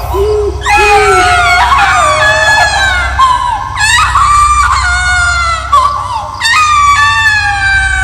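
Horror sound effect of high-pitched screaming wails: three long cries, each sliding down in pitch, over a low steady rumble.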